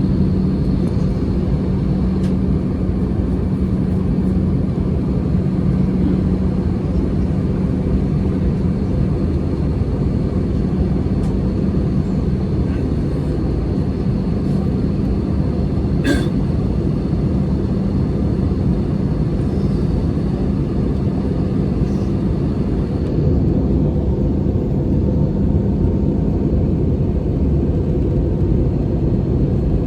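Steady engine and airflow noise inside the cabin of an Airbus A320-214 airliner, with a constant low hum running through it. A single sharp click sounds about 16 seconds in.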